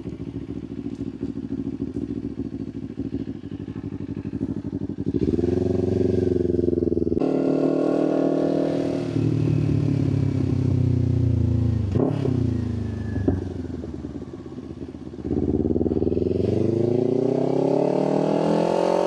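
Motorcycle engine under way, with the revs climbing, breaking off, falling away and climbing again as the rider accelerates and eases off.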